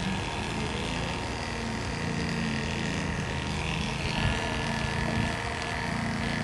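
Electric dog grooming clippers running with a steady motor hum as they trim a small dog's coat.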